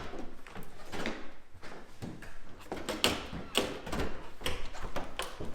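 Irregular knocks, clunks and scrapes of a framed house glass window being handled and shifted about in the hole cut in a truck's sheet-metal roof during a test fit.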